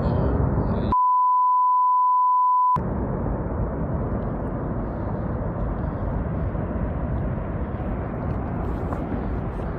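A pure steady tone near 1 kHz, a censor bleep, lasting about two seconds and starting about a second in; the recording's own sound drops out entirely while it plays. Before and after it, a steady dense rushing noise with its weight in the low and middle range.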